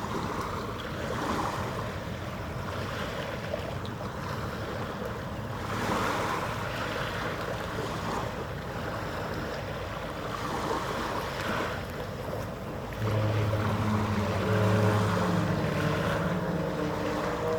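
Wind on the microphone over harbour water noise, rising and falling in gusts. About thirteen seconds in, a low pitched drone of a few held notes comes in and runs on.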